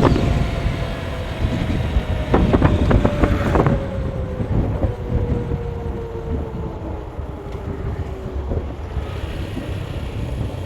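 A road vehicle driving, with a low rumble and wind buffeting the microphone. Its engine or drivetrain tone slowly falls in pitch as it slows. There are rattling knocks from bumps in the first few seconds.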